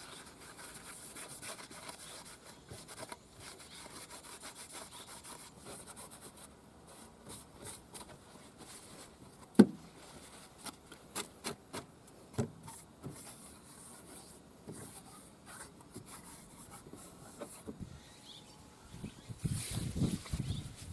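Hand work on a motorcycle cylinder head: steady rubbing and scraping, with scattered clicks of metal parts, one sharp knock about halfway through, and louder rubbing strokes near the end.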